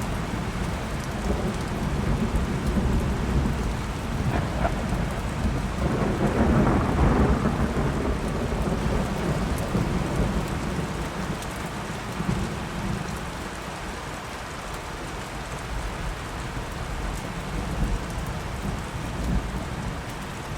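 Steady rain falling, with a long roll of thunder that builds a couple of seconds in, peaks in the middle and fades away.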